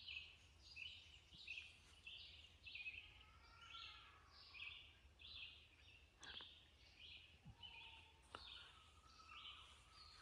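Faint songbird song: a long run of short high chirped notes repeated about twice a second, with a fainter lower bird call and a low steady hum beneath.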